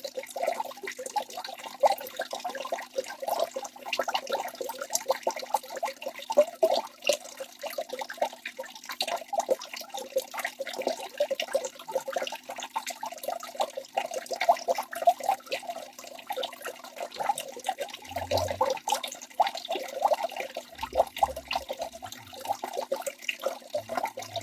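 Waterfall water splashing and burbling without a break, a dense flickering wash of falling water with a hiss above it.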